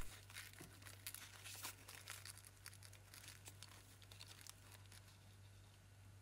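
Faint crinkling and rustling of dried paper tea bags being handled, in scattered small crackles that thin out towards the end.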